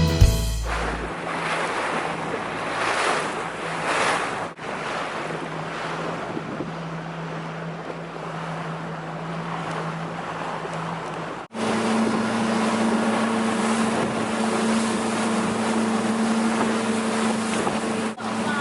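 Motorboat engine running steadily under the rush of water against the hull and wind on the microphone. The sound breaks off briefly twice, and after the second break, about two-thirds through, the engine hum sits higher.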